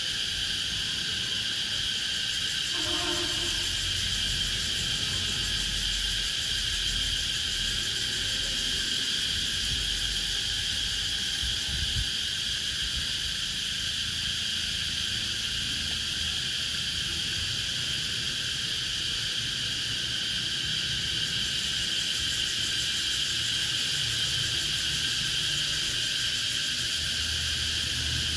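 Chorus of cicadas buzzing steadily and without a break, a high shrill drone. A brief lower-pitched call sounds about three seconds in.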